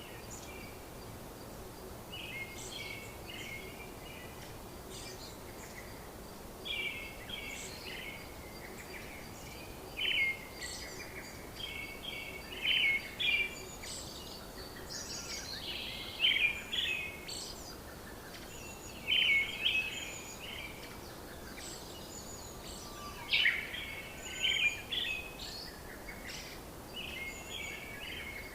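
Birds chirping and calling in short phrases, one every second or two, over a steady background hiss.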